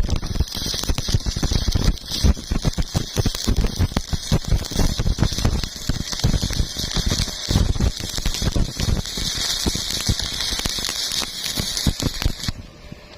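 Electric arc welding a fillet joint: a steady dense crackle and sizzle of the arc, which cuts off suddenly near the end as the arc is broken.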